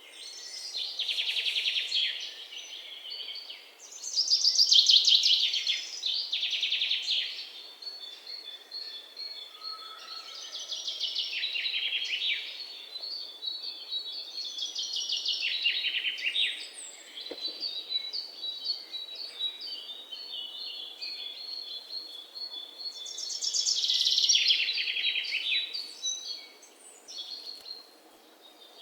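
Songbirds singing: repeated rapid trills and chirps, in several loud phrases with softer twittering between them.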